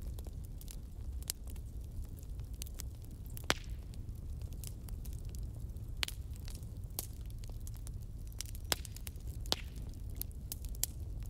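Fire crackling: a steady low rumble with irregular sharp pops and snaps, a few louder ones scattered through.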